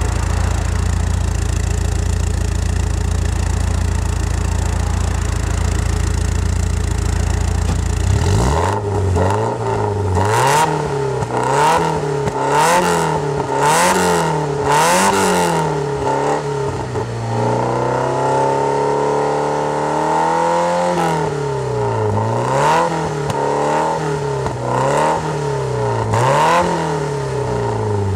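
Car exhaust through a Magnaflow muffler and high-flow catalytic converter, heard at the tailpipe: idling with a deep rumble for about eight seconds, then a run of quick throttle blips, one longer rev held for a few seconds, and more blips near the end.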